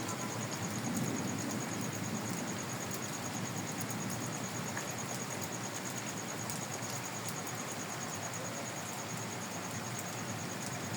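Steady stormy night ambience: an even hiss with a faint, rapid high-pitched pulsing over it and no thunderclap.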